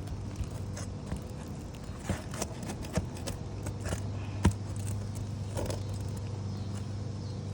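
Scattered taps, clicks and scrapes of hand tools working loose nails and asphalt shingles on a roof, the sharpest knock about four and a half seconds in, over a steady low hum.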